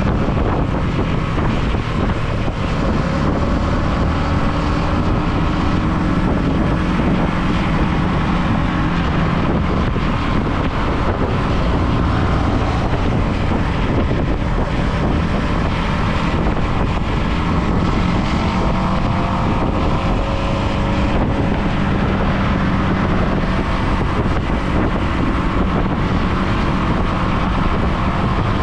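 Motorcycle engine running steadily, its pitch drifting slightly up and down, under heavy wind rush on the microphone.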